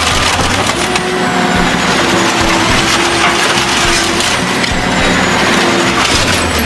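Industrial shredder crushing and tearing material: continuous crunching and cracking over a steady machine drone, with faint high squeals now and then.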